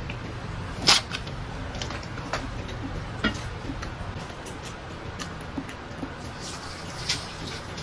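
Close-up eating sounds of someone chewing soft fish picked by hand: scattered short wet clicks and lip smacks, the loudest about a second in, over a faint low hum.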